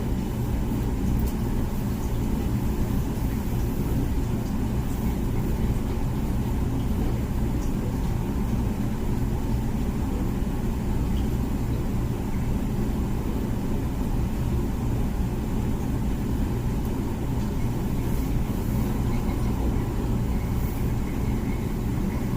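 Comfee dishwasher running mid-cycle: a steady low hum and rumble from its wash pump, unchanging throughout.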